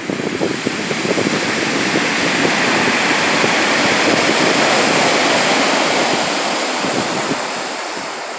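Sea surf: a wave breaking and washing in, the rush of water swelling over the first few seconds and fading away near the end.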